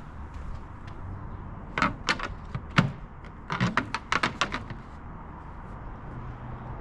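Light clicks and knocks as a rigid plastic trunk spoiler is handled and set against a car's rear liftgate, in two short clusters, over a low steady hum.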